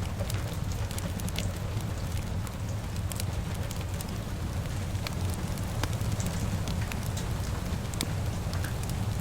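Wood fire crackling, with frequent sharp pops scattered through, over a steady low rumble and the even hiss of rain.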